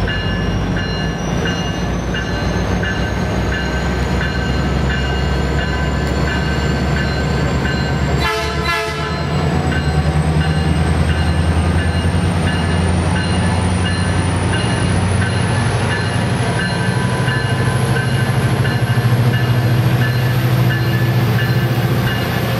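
Metrolink diesel locomotive pulling a commuter train slowly into the station: a steady engine rumble that grows louder about halfway through as the locomotive draws level. Over it runs an evenly repeating ringing, typical of the locomotive's bell sounding on a station approach.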